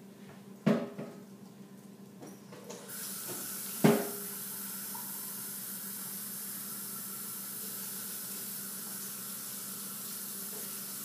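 Two sharp knocks, then a kitchen faucet turned on about three seconds in, running steadily as it fills a cup with water.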